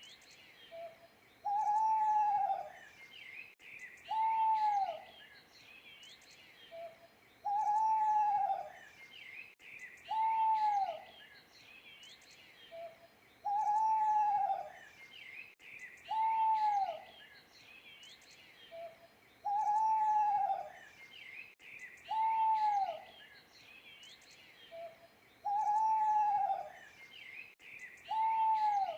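Owl hooting: a short soft note followed by two drawn-out hoots that arch up and fall away, the phrase repeating about every six seconds. Small birds chirp and twitter in the background.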